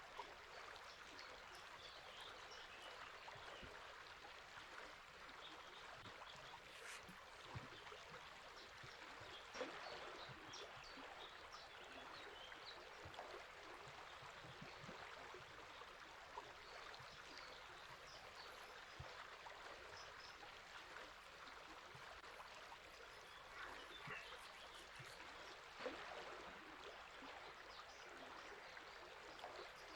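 A river flowing steadily and quietly, with faint scattered bird chirps over it and a couple of brief louder splashes or knocks.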